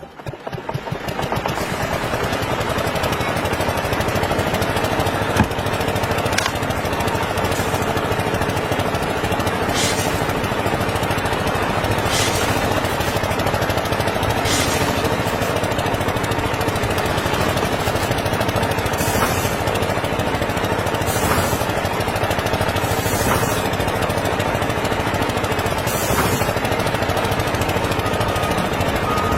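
A small motor-driven machine running steadily, with a few brief clicks over it.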